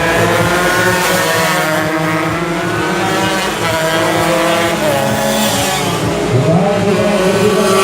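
Several tuned Yamaha RX King two-stroke motorcycle engines at racing revs, overlapping. Their pitch climbs and drops repeatedly as they accelerate and shift.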